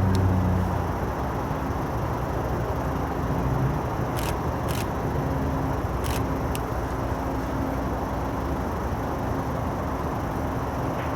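A deep, steady tone cuts off under a second in. It leaves a steady outdoor rumble with a faint hum and a few scattered clicks.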